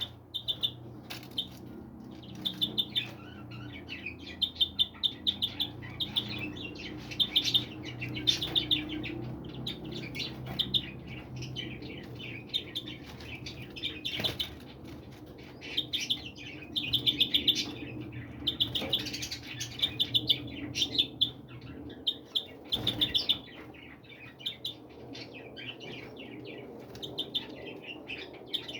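Small birds chirping, with quick runs of short high notes repeating over and over, above a low steady background hum.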